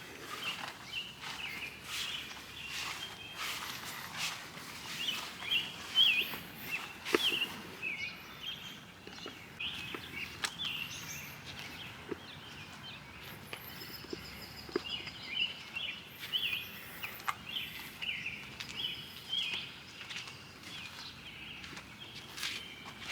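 Small birds chirping over and over, with footsteps and scattered clicks.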